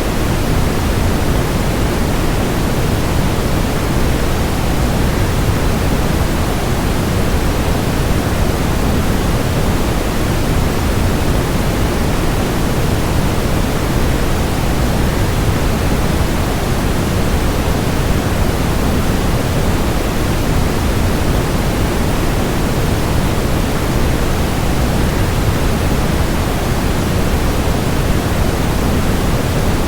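Steady, unbroken rushing noise of a waterfall blended with white noise, fuller in the low end than the high and unchanging throughout.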